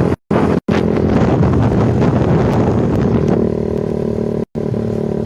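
Yamaha Vixion's engine running through a Kou Mahachai aftermarket racing exhaust: a loud, uneven exhaust note that settles into a steady idle about three seconds in. The sound cuts out completely for a moment a few times: a poor signal.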